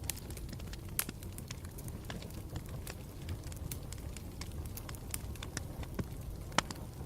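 Campfire burning with a steady low rumble and frequent irregular sharp crackles and pops, a few of them louder, about a second in and near the end.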